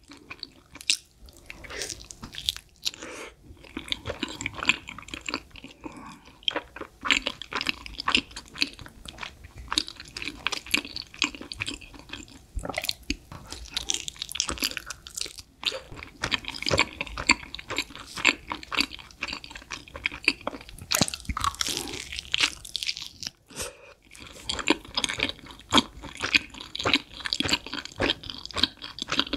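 Close-miked eating of a thick-crust pizza slice: bites and chewing with a continuous run of crunches from the crisp crust, with short pauses between mouthfuls.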